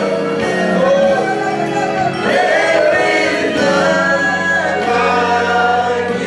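Gospel praise-and-worship music: singing with instrumental accompaniment.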